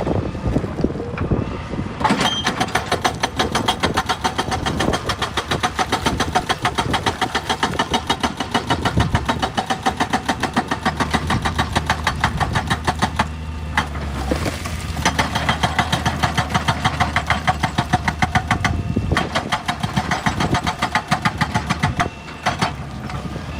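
Excavator-mounted hydraulic rock breaker hammering rock in a rapid, even train of blows over the diesel engine's drone. It starts about two seconds in and pauses briefly three times.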